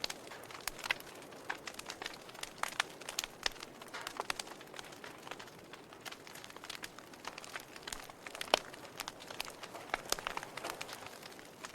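Wood fire crackling in a fireplace: irregular sharp pops and snaps over a soft hiss, with one louder pop about eight and a half seconds in.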